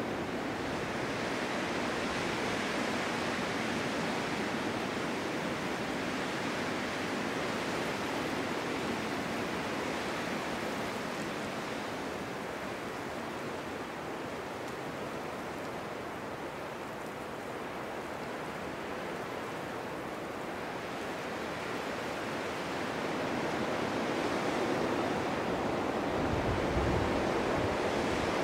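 Wind blowing steadily through a snow-covered forest, a broad rushing that eases off a little midway and swells again near the end.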